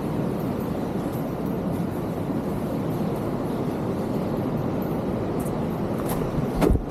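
Steady rush of water, a dense low noise. Near the end, a sharp knock stands out as the loudest sound.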